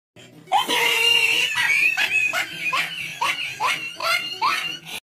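A person laughing loudly: a long, high laugh, then about eight evenly spaced bursts of laughter.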